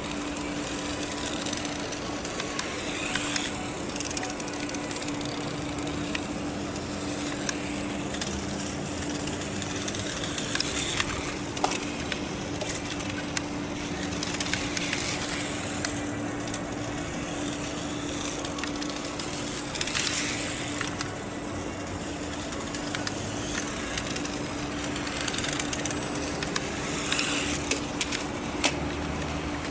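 Toy radio-controlled motorcycle being driven, its small electric motor and wheels making a continuous noisy running sound. Several brief louder swells come every few seconds as it passes close, over a steady low hum.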